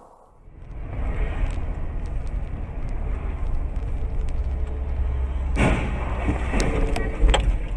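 A car driving, recorded from a dashcam: steady low engine and road rumble starts about half a second in. About two seconds before the end a sudden rush of noise comes, then scattered clicks and a sharp knock near the end, the loudest moment.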